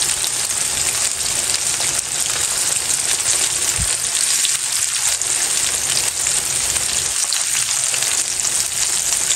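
Flour-coated chicken legs deep-frying in oil over a low flame: a steady sizzle with fine crackling.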